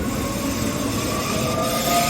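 Passenger or freight train running on the line: a steady rumble of wheels on rails with thin whining tones that slowly rise in pitch.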